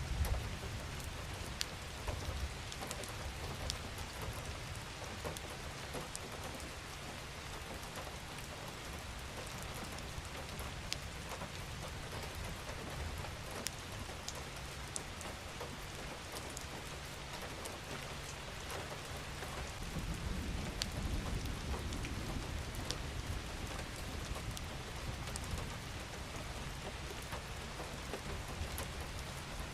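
Steady rain falling, with individual drops ticking sharply on a surface throughout. A low rumble swells up about two-thirds of the way through and fades again.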